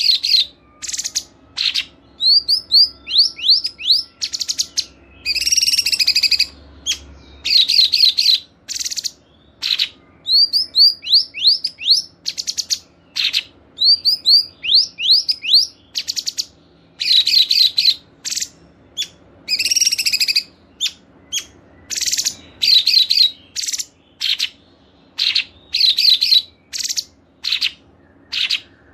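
Songbirds singing a mixed masteran bird-song recording: short, rapid bursts of high chirps, trills and quick rising whistles, with brief pauses between phrases.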